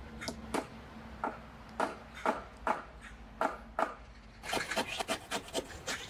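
Short, sharp knocks on wood, about two a second, then a quicker run of clicks and taps from about four and a half seconds in.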